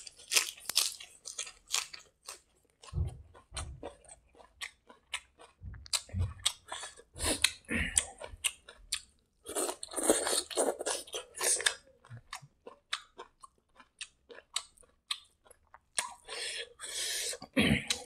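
Close-miked chewing and crunching of mouthfuls of raw mustard-green leaf (hangam) and hand-mixed rice, with many small wet mouth clicks.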